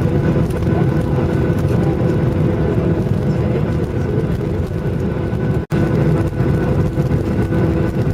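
Jet airliner cabin noise as the plane taxis after landing: a steady low rumble from the engines and airflow, with several steady whining tones over it. The whole sound drops out for an instant a little over halfway through.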